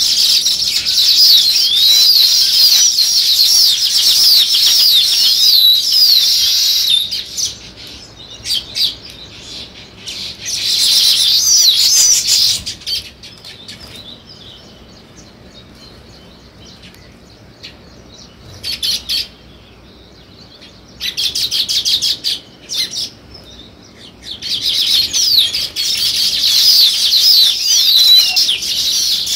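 A flock of sparrows chirping in a dense, rapid, high-pitched chorus. The chorus thins to scattered chirps and short bursts for roughly ten seconds in the middle, then builds back to a full chorus near the end.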